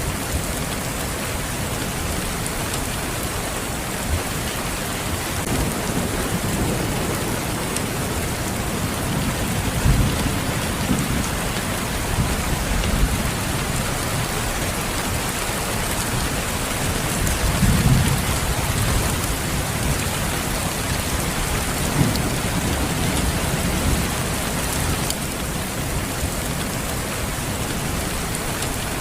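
Steady rain falling, with low rumbles of thunder swelling up a few times, the strongest about a third of the way in and again past the middle.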